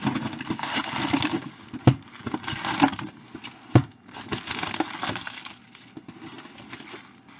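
Crinkly plastic wrapping being handled and torn open on a trading-card hobby box, a rustling, tearing noise in bursts, with two sharp clicks about two and four seconds in.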